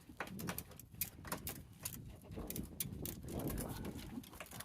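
Irregular plastic clicks, knocks and rattles as a BMW E31's fuel pump assembly and its attached hoses are worked up out of the fuel tank.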